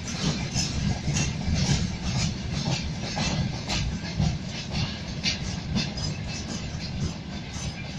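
Freight train of open-top gondola wagons rolling past: a steady low rumble of wheels on rail, with frequent clacks of wheels over the rail joints.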